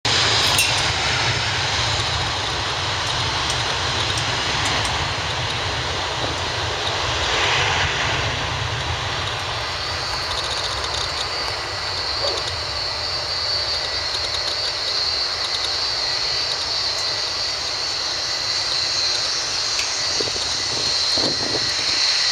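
Airbus A340-300's four CFM56 jet engines spooling up and running at takeoff power: a steady rushing noise, joined about ten seconds in by a high steady whine.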